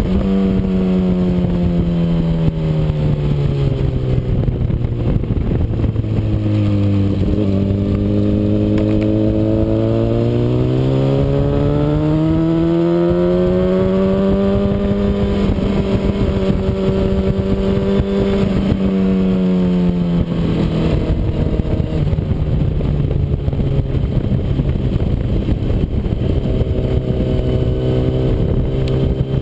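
Honda CBR RR sport bike's inline-four engine at track speed: revs falling over the first several seconds as it slows, climbing again to a steady high pitch, then dropping abruptly about two-thirds of the way through and holding. A steady rushing noise runs underneath.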